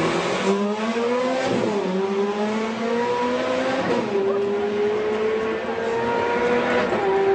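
Supercar engine accelerating through the gears, its pitch climbing steadily in each gear and dropping at the upshifts, about a second and a half in, about four seconds in, and near the end.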